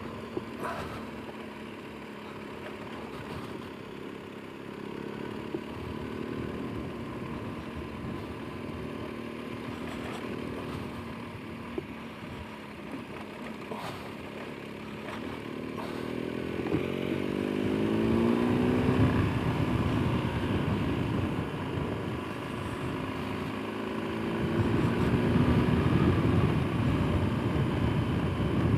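Motorcycle engine running steadily at low speed, heard from the rider's camera. About two-thirds of the way in its pitch rises as it accelerates and it grows louder, with a louder, rougher stretch near the end and a few sharp clicks in the first half.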